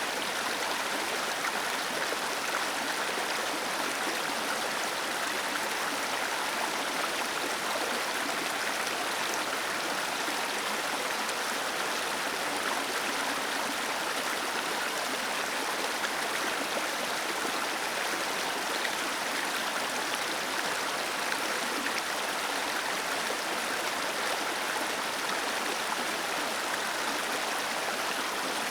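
Waterfall cascading, a steady rush of falling water.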